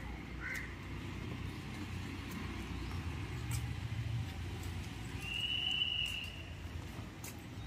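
Birds calling over a low rumble: two short chirps at the start, then a single long, steady high note about five seconds in.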